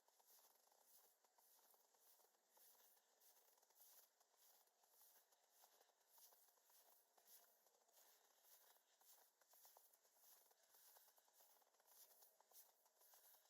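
Very faint footsteps crunching in snow at a steady walking pace.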